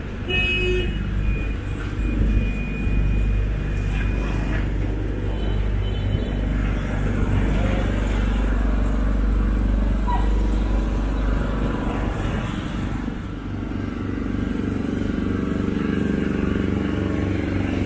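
Street traffic noise: the steady low rumble of passing cars and motorbikes, with a brief horn-like tone about a second in.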